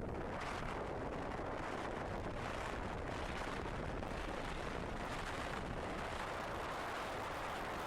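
Steady, heavy wind buffeting on the microphone of a centre-console sport fishing boat running at high speed, with the noise of its twin Suzuki outboards and the water beneath it.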